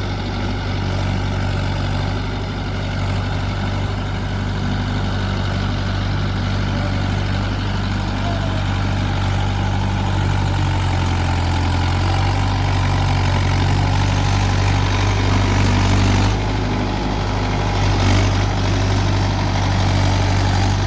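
Mahindra tractor's diesel engine running steadily; its tone shifts about sixteen seconds in.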